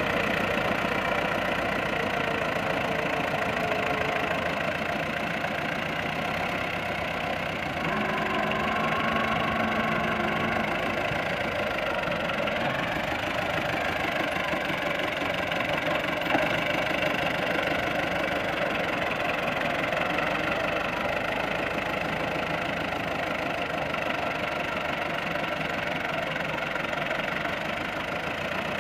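Diesel tractor engine running steadily. A short steady tone sounds over it for a few seconds, starting about eight seconds in.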